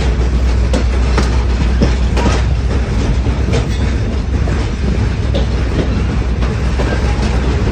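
Passenger train coaches rolling along the track, heard from an open-air car: a steady loud rumble with irregular clicks and clunks of the wheels over the rails.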